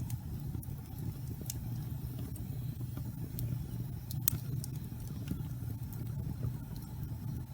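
Wood fire burning in a fireplace: a steady low rumble of flames with scattered sharp crackles and pops from the burning logs, one louder pop about four seconds in.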